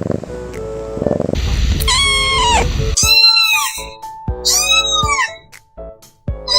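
Kittens meowing: several high-pitched meows, each rising and then falling in pitch, the first starting about two seconds in, over background music.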